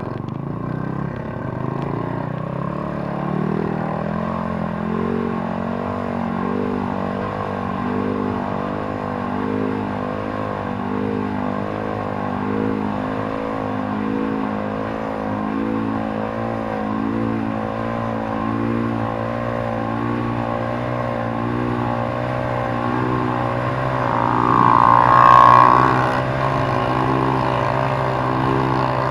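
150 cc motorcycle engine running, its revs rising and falling over and over in a regular wave, then holding steadier, with a louder, higher rev about three-quarters of the way through.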